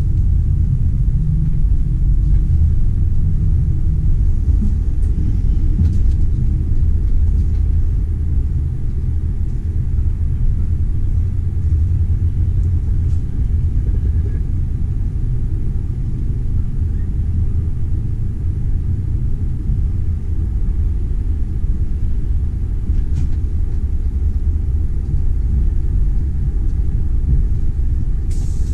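Steady low rumble of a passenger train running along the track.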